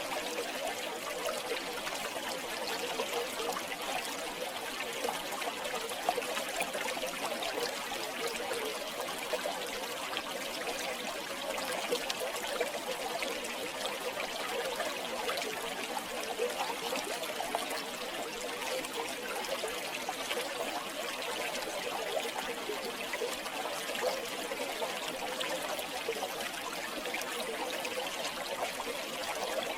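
River water flowing and trickling steadily over stones, a continuous bubbling rush.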